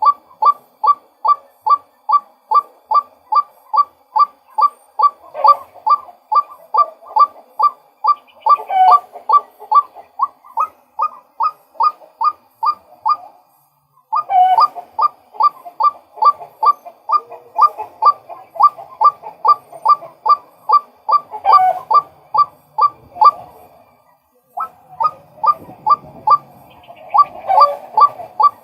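Male white-breasted waterhen calling: a fast, even string of sharp "kwak" notes, about three a second. The run breaks off briefly twice, near the middle and again about four-fifths of the way through. A few lower calls overlap it now and then.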